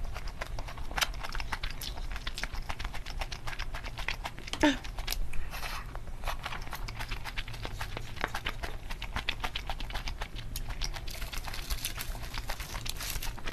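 Close-miked chewing and wet mouth sounds of someone eating kimchi fried rice, as a run of small clicks and smacks. Near the end, dry sheets of seaweed (gim) crackle as they are picked up.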